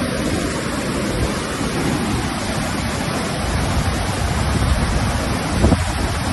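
Floodwater rushing steadily, with a low, fluttering rumble underneath.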